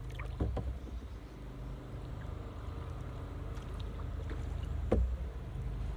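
Canoe being paddled: paddle strokes in the water with a few short knocks, about half a second in and again near five seconds, over a steady low rumble.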